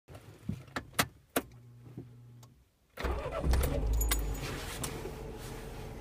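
Keys clicking and jangling at a Ford Ka's ignition, with a short hum, heard from inside the cabin; about three seconds in the engine starts, flares up for a moment and settles to a steady idle.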